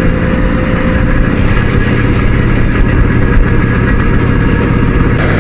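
Kawasaki H2 Mach IV two-stroke triple motorcycle engine running at a steady cruise, with wind rush over the bike at road speed. The engine note shifts slightly near the end.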